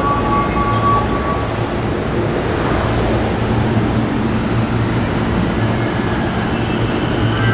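Keio 9000 series electric train running through a subway tunnel, heard from inside the car: a steady rumble of wheels and running gear. A faint whine comes in near the end.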